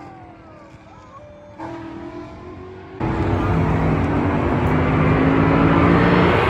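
Car engines revving as cars drive out of a car meet. About three seconds in, a much louder car engine comes in suddenly and keeps running, its pitch rising slowly as it accelerates.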